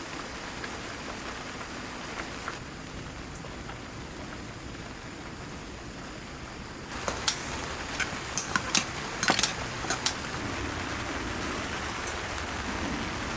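Steady rain falling. About halfway through, sharp single drops start hitting close by, a quick run of loud ticks over the steady hiss.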